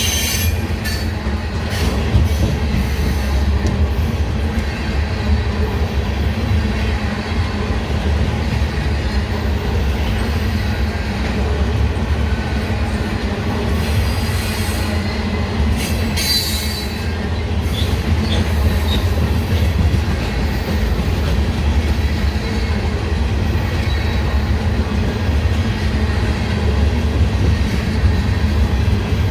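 Railroad cars rolling past with a steady low rumble of wheels on the rails, and brief high-pitched wheel squeal near the start and again about 15 to 17 seconds in.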